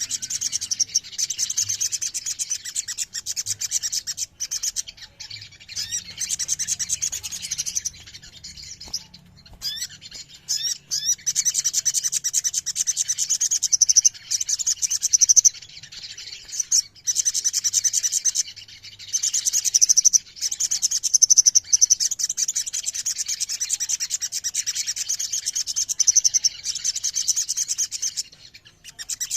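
A chorus of many little spiderhunters (sogon) calling together in dense, rapid, high chattering trills. There are a few brief breaks, the longest about 8 s in and about 16 s in.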